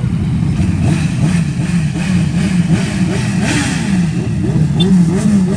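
Car engine revved in quick repeated blips, its pitch rising and falling about twice a second over a steady engine idle.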